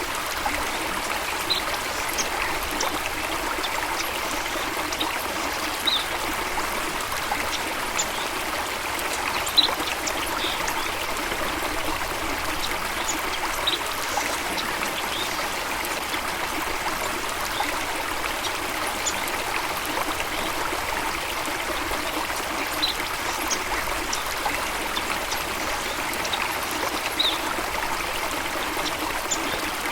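Running water rushing steadily, with short, high bird chirps scattered every few seconds over it.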